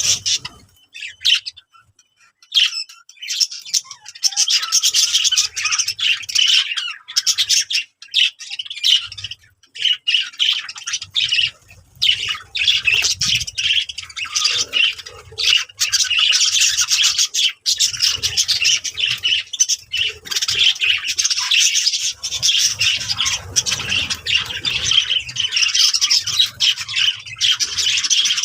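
A group of birds calling: many short, harsh calls overlapping almost without a break, with a short lull about two seconds in.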